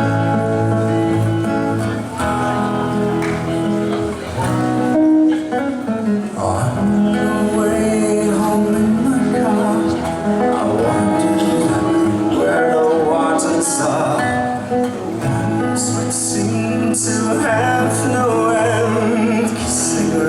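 Live acoustic rock music: an acoustic-guitar-led song intro with sustained chords, joined about six seconds in by a wavering melody line above them.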